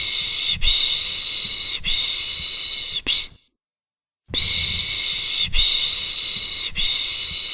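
A person's 'piş piş' shushing to soothe a baby: three long 'shh' hisses and a short one, a pause of about a second, then the same pattern again.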